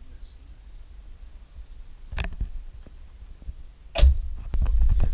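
A few sharp knocks and clicks over a faint low hum; about four seconds in a loud knock, then a car engine runs with a steady low rumble.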